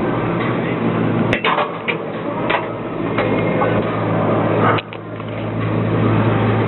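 Inside a Metrocable gondola cabin riding up the cable: a steady low mechanical hum with several sharp knocks, the loudest about a second in and near the middle.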